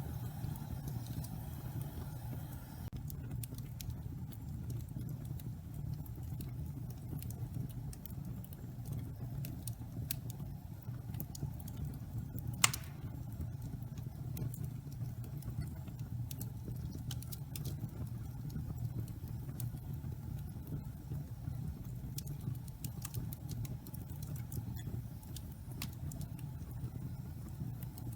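Wood fire in a fireplace burning damp pine logs: a steady low rush with scattered crackles, and one sharp loud pop about halfway through.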